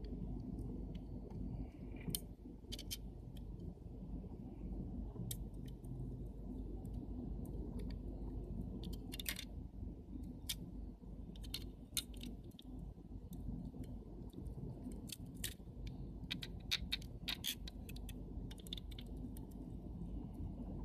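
Irregular small, sharp clicks and taps of camera lens parts being handled and fitted during reassembly, over a steady low hum.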